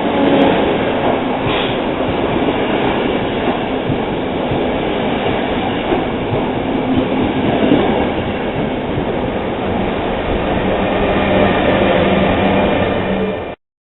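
A rail vehicle running along the track: a steady, loud rumble of wheels on rail with a low hum underneath. It cuts off suddenly near the end.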